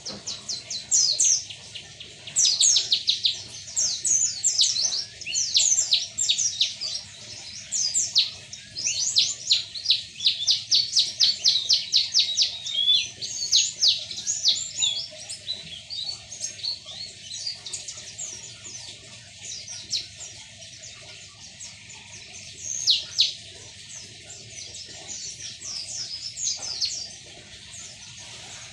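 White-eye (pleci) singing: rapid, high chirping twitters, dense and loud for the first half, then sparser and softer.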